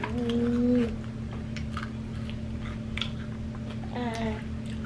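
Eating sounds of fried chicken and fries being bitten and chewed close to the microphone, with scattered small clicks. There is a short hummed voice sound near the start and a brief voice sound about four seconds in, over a steady low hum.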